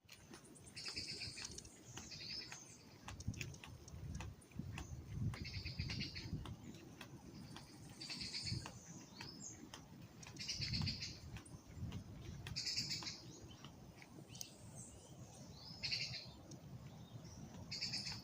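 A bird calling over and over, one short high call about every two seconds, with a low rumble and light clicks underneath.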